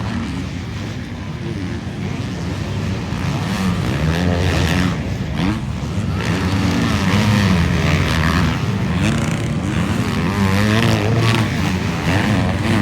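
Several 450-class motocross bikes racing around a supercross track, their engine notes overlapping and rising and falling in pitch as the riders open and close the throttle.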